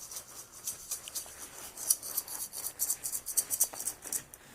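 Dry oatmeal flakes being spread by hand across a floor: a quick, irregular patter of small scratchy ticks.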